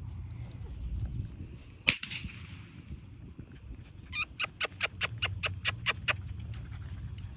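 Firework bangs: one sharp bang about two seconds in, then a rapid string of about ten cracking pops, roughly five a second, like a firecracker string going off.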